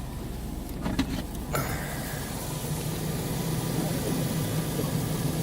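2003 Chevrolet Tahoe's 5.3-litre V8 idling steadily and smoothly, with no misses. Two short clicks come about a second in.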